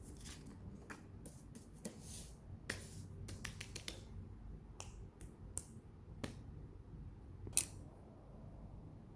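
Faint, scattered small clicks and rustles of crochet work being handled, with one sharper click late on.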